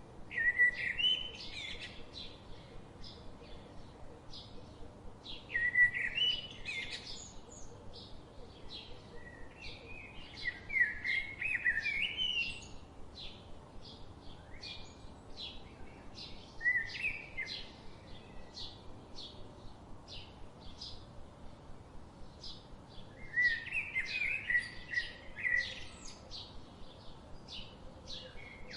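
Songbirds singing: one bird gives warbled song phrases of a second or two every few seconds, about five in all, over another bird's steady run of short, high chips repeated a few times a second.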